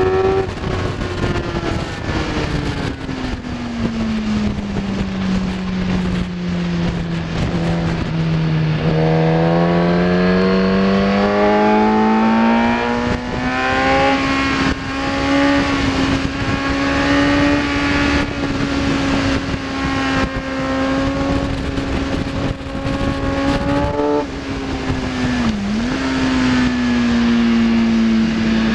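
Kawasaki ZX10R's inline-four engine at speed on track: the revs fall steadily for about eight seconds, climb again, then hold fairly level with a brief dip in revs near the end. A steady rush of wind noise runs under the engine.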